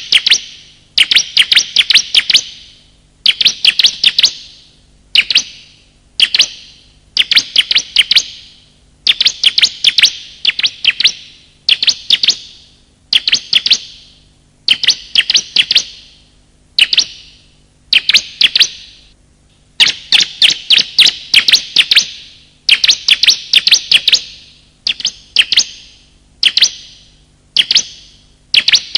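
Recorded song of male and female bar-winged prinias (ciblek), used as a bird-luring call: loud, high-pitched bursts of rapid sharp chirps, repeating about once a second with short pauses between.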